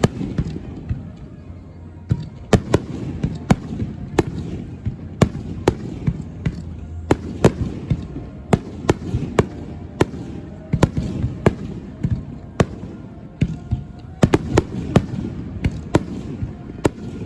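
Aerial fireworks bursting: a rapid, irregular series of sharp bangs, several a second, over a low rolling rumble.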